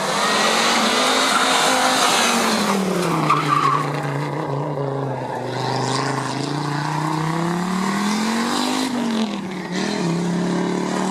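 Rally car engine on a special stage: the engine note drops as the car slows, then climbs again as it accelerates, with a brief dip near the end, likely a gear change, before it rises once more.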